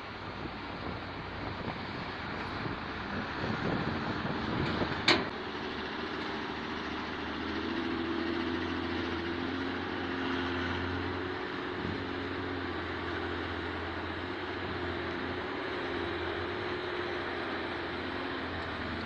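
Diesel engine of heavy earthmoving machinery running. It gives irregular knocks and rumbles for the first few seconds, then a sharp click about five seconds in. After that the engine settles into a steadier note whose pitch wavers up and down.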